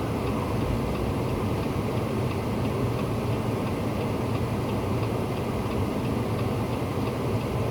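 Steady low vehicle drone of engine and road noise, with a faint, regular ticking over it.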